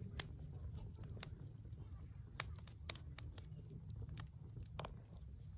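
Wood fire crackling: sharp, irregular pops, about half a dozen, over a low steady rumble.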